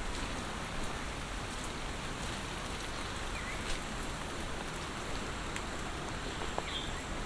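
Steady monsoon rain falling.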